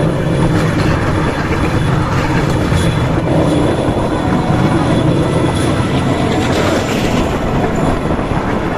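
Bamboo train (norry) running along the rails: a steady, loud mix of its small engine and the rattle of its wheels on the track.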